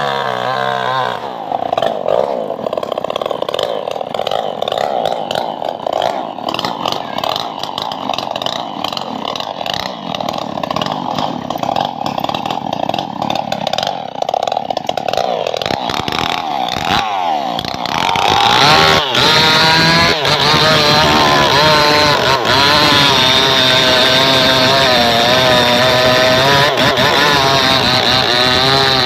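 Engine-driven saw cutting trembesi wood. It revs up about a second in and runs under load, then climbs to a higher, steadier pitch about two-thirds of the way through.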